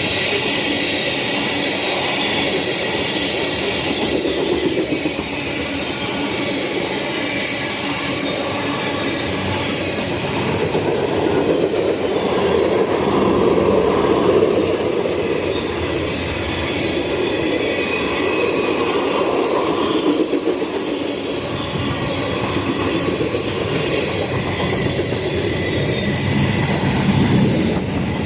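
Freight train cars rolling past, wheels clattering over the rail joints, with a steady thin squeal from the wheels against the rails.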